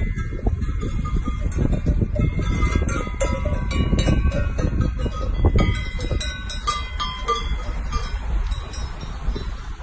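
Small metal bells clinking and ringing irregularly, many strikes overlapping, over a steady low rumble of wind.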